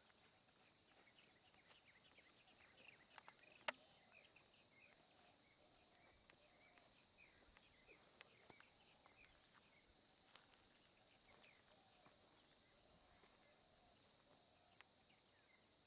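Faint jungle ambience: a steady high insect hum with many small bird chirps, and one sharp click about four seconds in.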